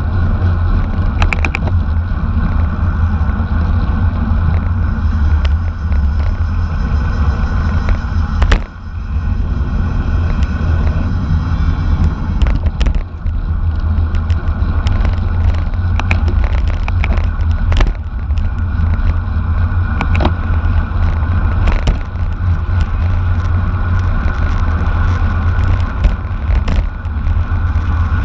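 Wind buffeting the microphone of a camera on a moving racing bicycle, a loud steady low rumble with tyre and road noise, broken by frequent sharp clicks and knocks.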